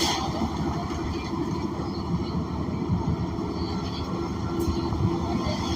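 Cabin noise of a New Flyer XN40 city bus under way: its Cummins Westport ISL G natural-gas engine running with a steady low rumble of road and body rattle, and short hisses at the start and about four and a half seconds in.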